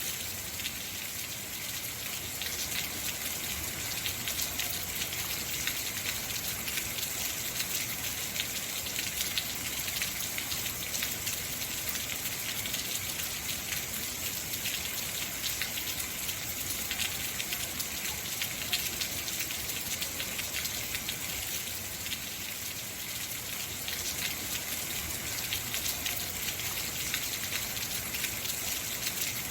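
Heavy rain falling steadily, a dense hiss of drops pattering on hard surfaces, with no thunder.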